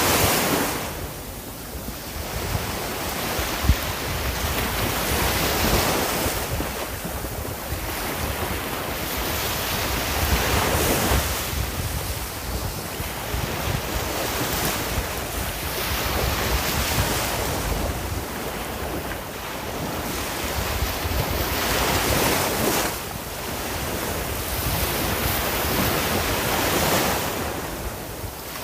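Sea waves breaking and washing on the shore, the surf swelling and falling back every few seconds, with wind noise on the microphone.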